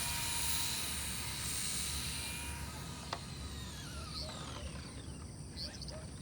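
RC drag car's electric motor running away down the strip, its high whine falling in pitch and fading with distance. A single sharp click comes about three seconds in.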